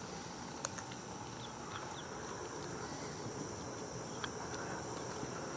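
An alligator crunching an armored catfish in its jaws: a sharp crack about half a second in and another about four seconds in. A steady high-pitched insect buzz runs underneath.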